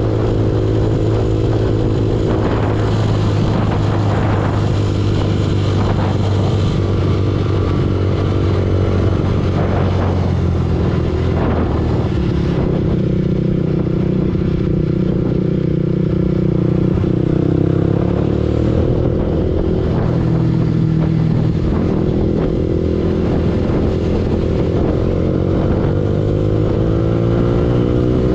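Yamaha R15 V2's single-cylinder four-stroke engine running under a rider on the move. The engine note shifts pitch about halfway through and climbs near the end.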